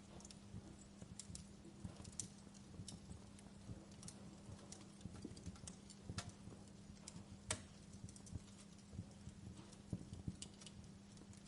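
Wood fire crackling: irregular sharp pops and snaps, a few each second, over a soft low rumble and a faint steady hum. The loudest pops come about six and seven and a half seconds in.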